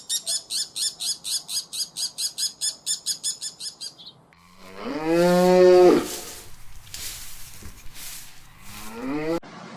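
A cow mooing once, long and loud, about five seconds in. It is preceded by a rapid run of high chirps, about seven a second, and followed near the end by a shorter rising call that cuts off abruptly.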